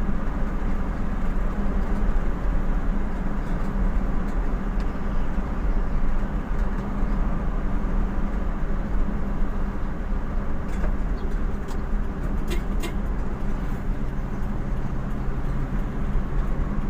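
Motor vehicle's engine running with a steady low hum and road noise, heard from inside the cab. A few faint clicks come about two-thirds of the way through.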